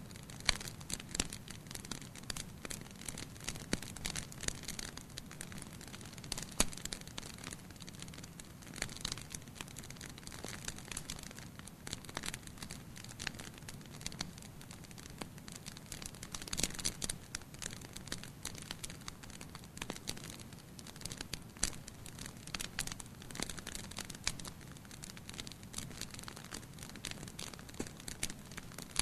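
Wood fire burning in a fireplace: a steady low hiss with irregular crackles and sharp pops.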